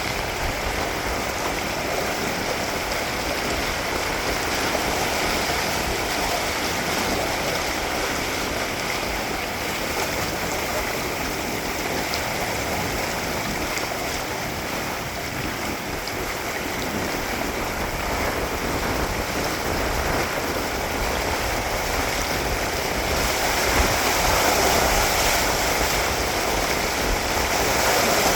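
Water rushing steadily along the hulls of a Windrider 17 trimaran under sail, with wind buffeting the microphone. It grows a little louder near the end.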